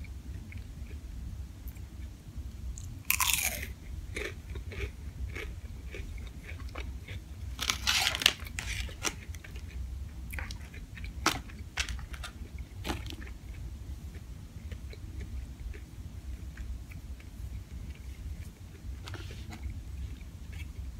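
Close-up crunchy bites into a fried chicken nugget, with two loud crunches about 3 and 8 seconds in, followed by quieter chewing and small crackles of the breading.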